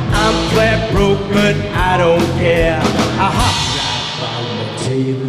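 Live band playing a rockabilly song: a drum kit keeps a steady beat under a bending melody line, and the playing thins out about four seconds in.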